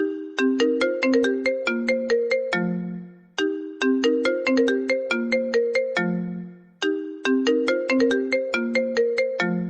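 iPhone ringtone playing: a short melody of quick notes that ends on a lower held note, looping about every three and a half seconds.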